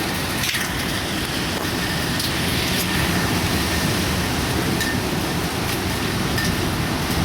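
Typhoon wind and rain: a steady rushing noise with scattered sharp ticks.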